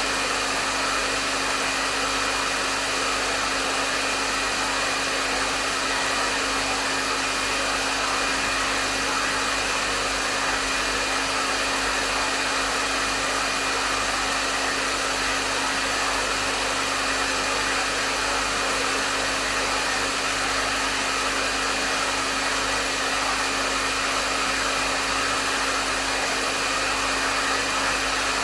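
Hair dryer running steadily, a continuous rush of airflow with a steady motor hum under it.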